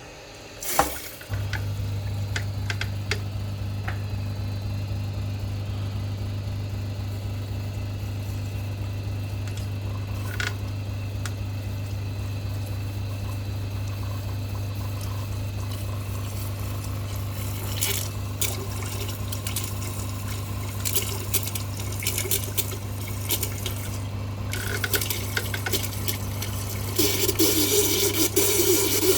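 Steam cleaner running: a click about a second in, then a steady low buzzing hum from its pump, with scattered clicks, and steam hissing louder near the end.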